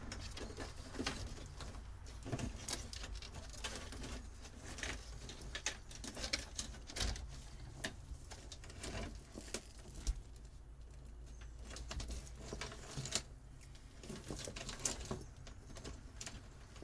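Old boat wiring being handled and pulled loose: irregular rustling, scraping and small clicks, over a low steady hum.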